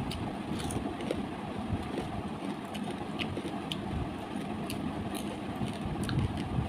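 Close-up chewing and mouth sounds of someone eating fried fish by hand, with small scattered clicks, over a steady low rumble.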